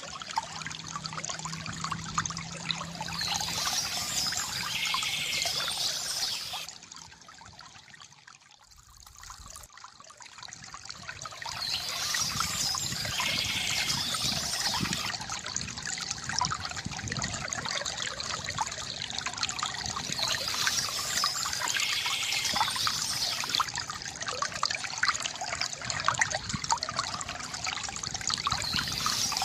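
Water trickling and pouring from a bamboo fountain in a steady gurgling flow. The flow drops away for a few seconds about a quarter of the way in, then builds back up.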